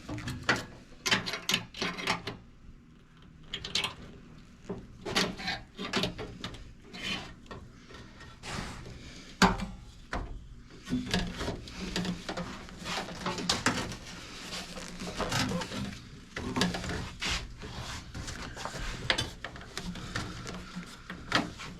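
Hand tools working a steel sheet-metal patch piece: irregular taps and knocks with stretches of scraping between them.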